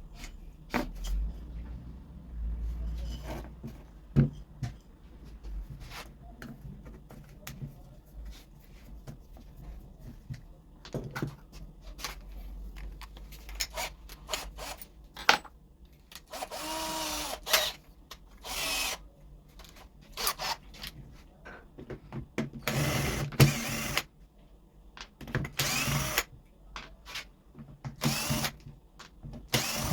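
A power tool runs in short bursts of about a second, five times in the second half. Between the bursts come scattered clicks and knocks of tools and parts being handled.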